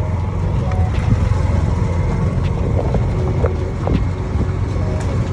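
A motor vehicle's engine running with a steady low rumble and wind buffeting the microphone, heard from on board as it drives along a road.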